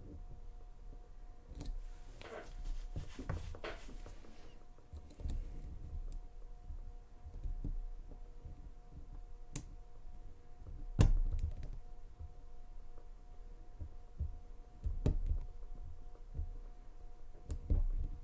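Lock pick and tension wrench working the pin stack of a Lane Security padlock: scattered small clicks and taps of metal on metal, with a quick run of ticks early and a sharper knock about eleven seconds in.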